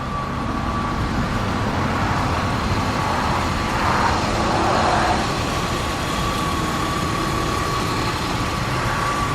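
Steady outdoor road traffic noise, swelling as a vehicle passes about four to five seconds in, with a thin steady whine above it.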